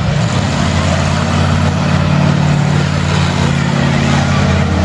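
Monster truck engine running with a steady low drone. Its pitch steps up about a third of a second in and shifts again near the end.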